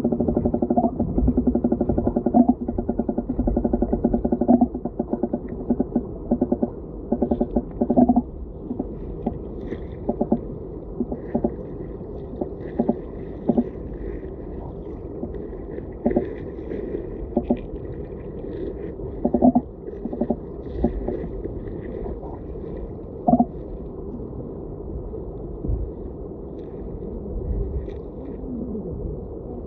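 Muffled river water heard through an underwater camera: a low, dull rush with irregular knocks and clicks scattered throughout.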